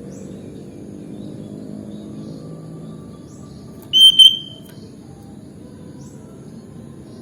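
Sooty-headed bulbul (kutilang) giving a loud two-note call about four seconds in, over a steady low background hum and a few faint chirps.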